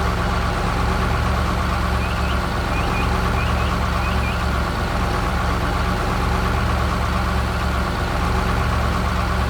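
Heavy truck engine running steadily at idle. A few short, high chirps come in between about two and four seconds in.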